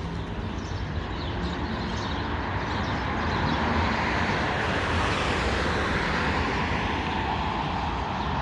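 A passing vehicle's rushing noise swells to its loudest about halfway through and then fades, over a steady low traffic rumble. A few faint bird chirps come near the start.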